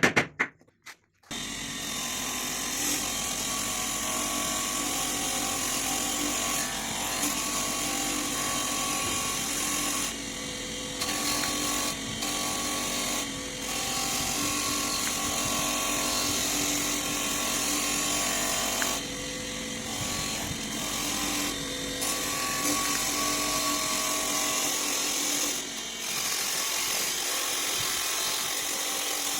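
Bench grinder running with a steel chisel blank being ground against the wheel: a steady, hissing grinding sound that breaks off briefly a few times as the piece is lifted, after a short loud rattle in the first second.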